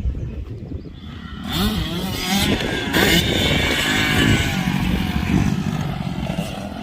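Motocross dirt bike engines running on the track. About one and a half seconds in, a bike gets louder, its engine pitch rising and falling as it revs.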